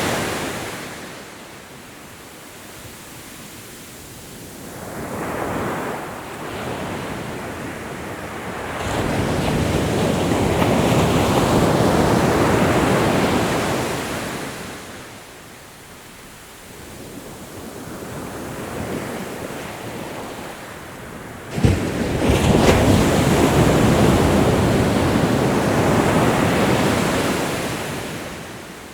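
Ocean waves washing onto a shore in slow swells with quieter lulls between: a small surge about five seconds in, a long loud wash from about nine to fourteen seconds, then a wave that breaks with a sudden sharp crash about twenty-two seconds in, followed by the loudest wash, which fades near the end.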